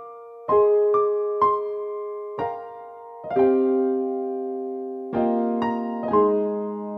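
Slow, gentle solo piano music: single notes and soft chords struck every second or so, each left to ring and fade.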